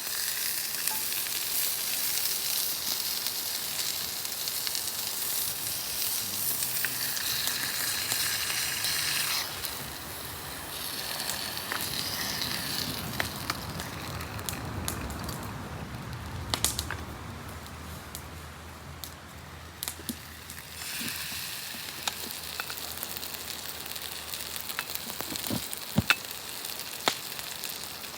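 Campfire burning with a steady hiss and occasional sharp pops and crackles.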